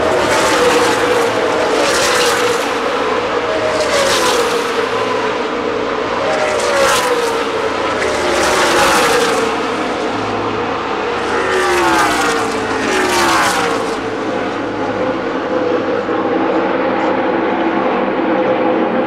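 NASCAR Nationwide Series stock cars' V8 engines racing past in bunches, each pass falling in pitch, over a steady drone of the field running around the track. The passes stop about fourteen seconds in, leaving only the more distant drone.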